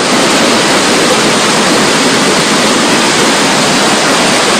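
Floodwater rushing loudly and steadily down a street.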